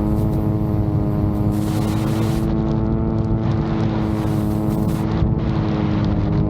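VTOL drone's propellers running at a steady pitch, with strong wind buffeting the microphone.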